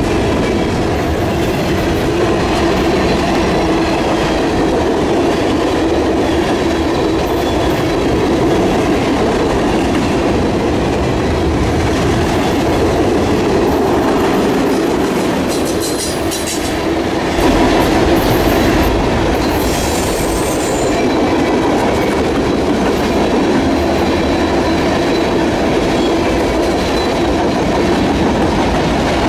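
Freight cars (covered hoppers, then tank cars) rolling past at close range: a steady, loud rumble of steel wheels on the rails. There are a few brief high-pitched sounds around the middle.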